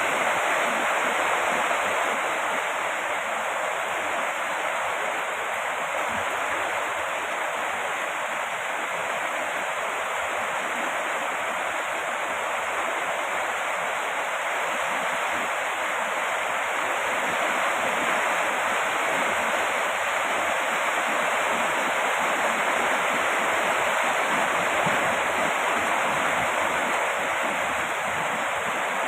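Heavy rain falling steadily, an even hiss that barely changes in level.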